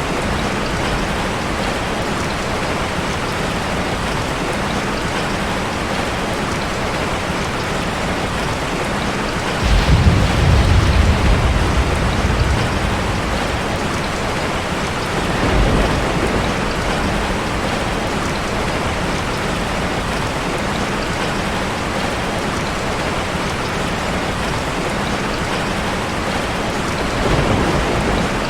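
Steady hiss of rushing, falling water. A deep low rumble swells about ten seconds in and lasts a couple of seconds, with shorter rumbles near sixteen seconds and near the end.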